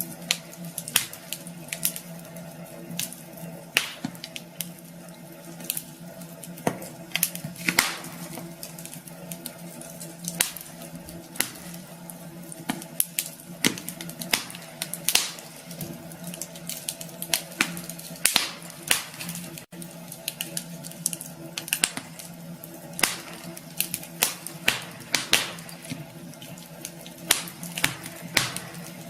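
Wood fire crackling in a fireplace: irregular sharp pops, several a second, over a steady low hum.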